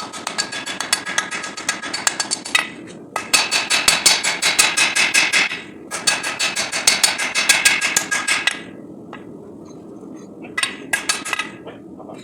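Hammer blows on a bar of SAE 5160 knife steel during hand forging: three runs of quick, even strikes, about five or six a second, then a few separate blows near the end. A steady rushing noise runs underneath.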